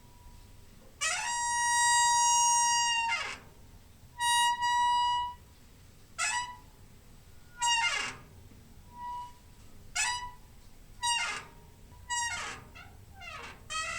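Door hinge squeaking: a long creak of about two seconds starting a second in, a shorter one around four seconds, then short squeaks about once a second that quicken into a rapid run near the end. Each squeak is a high, steady tone that bends in pitch as it starts and stops.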